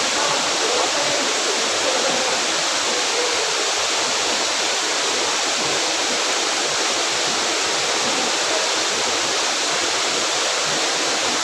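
Waterfall: a loud, steady rush of falling water that holds even throughout.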